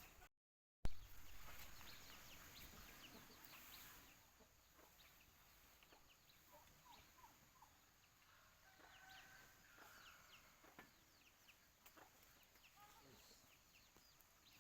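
Faint poultry calls: scattered short, high clucks and peeps, many of them falling in pitch. The sound drops out completely for about half a second just after the start.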